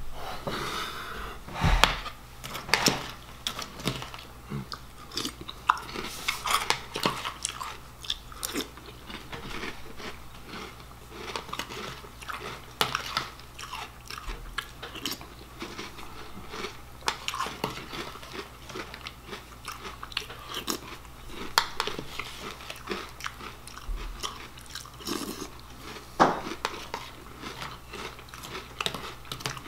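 Close-up sound of a man chewing crunchy cinnamon toast cereal, with irregular crunches as he bites and chews spoonful after spoonful.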